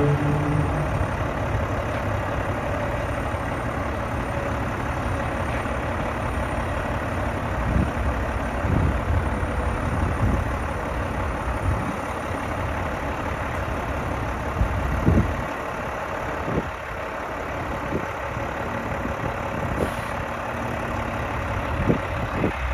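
350 hp Mack MP7 diesel engine of a garbage truck idling steadily, with a few brief knocks over it.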